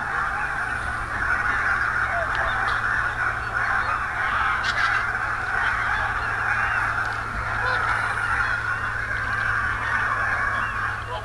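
A large flock of geese calling all together, a dense, unbroken din of many overlapping honks.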